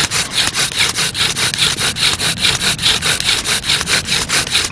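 Bow drill worked hard and fast: a wooden spindle grinds and squeaks in the fireboard hole in an even rhythm of strokes, several a second, as the hearth puts out heavy smoke and an ember forms.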